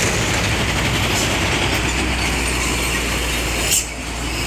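Steady road noise of heavy vehicles on the move: a low engine drone under a broad rumble of tyres and wind. Near the end it is broken by one sharp knock, followed by a brief dip in level.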